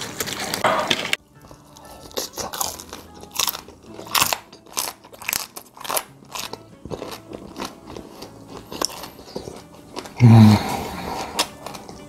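Close-up crunchy chewing: a mouth biting and chewing crisp-skinned roast pork knuckle (Schweinshaxe), in many short, irregular crunches. About ten seconds in there is a short hum from the voice.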